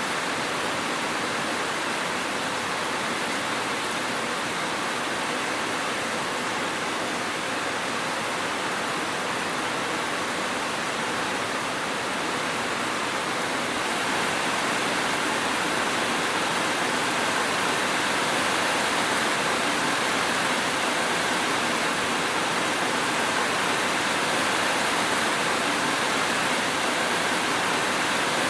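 Steady rain, an even hiss with no separate drops or thunder, growing slightly louder about halfway through.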